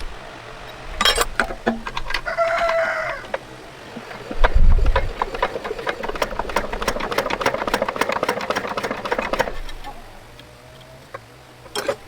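A few sharp knocks, a short pitched call, then fast, even mechanical clicking for about four seconds that stops suddenly.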